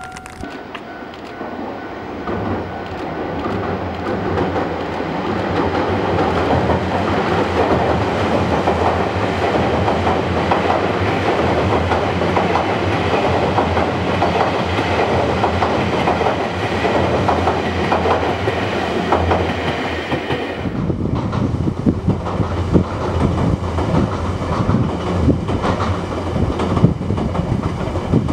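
Nankai Main Line electric train running past, its wheels clattering over the rail joints as it grows louder. About two-thirds of the way through, the sound changes abruptly to sharper, closer wheel clacks.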